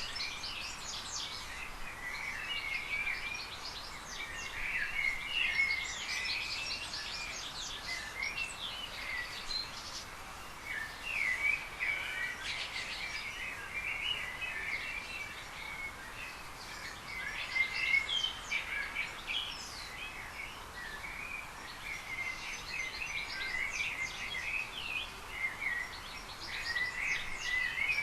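Small birds chirping and twittering in repeated bursts of a few seconds each, over a steady background hiss.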